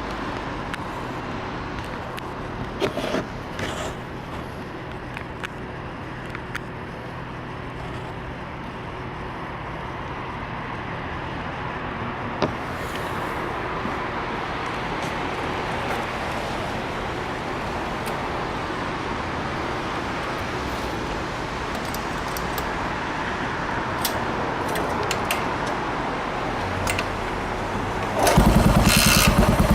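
Rain hissing steadily with scattered clicks and knocks as the throttle is blipped and the kickstarter is worked. Near the end the cold 534cc Yamaha SR400 single-cylinder engine, fed by a chokeless FCR41 carburettor, fires on the first kick and runs with a loud, rapid, even beat.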